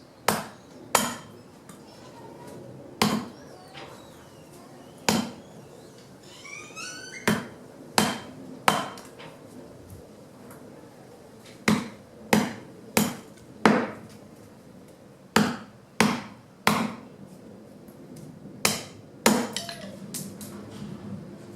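Fallen branches being chopped into wood chips by hand: about sixteen sharp strikes of a blade into wood at uneven intervals, some in quick runs of three.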